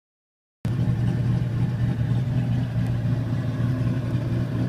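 Twin-turbocharged LS3 V8 of a 2006 Pontiac GTO running steadily at idle, a low even rumble that cuts in abruptly about half a second in.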